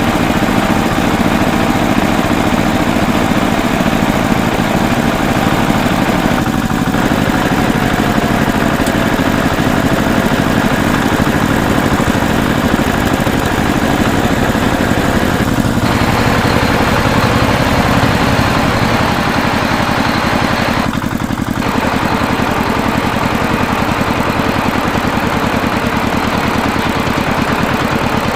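Tractor engine running steadily at idle, a rapid even chugging, with short breaks in the upper sound a few times, as if spliced.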